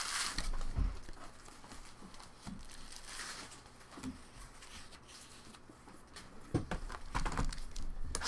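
Quiet rustling and light taps from trading cards and foil pack wrappers being handled, picking up again near the end.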